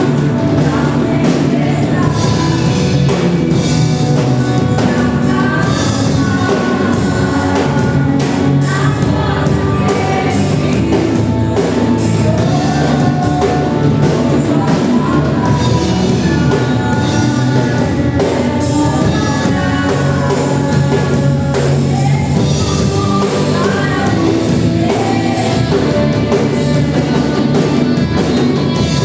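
A church worship band playing a praise song, with a singing voice over drums and guitar.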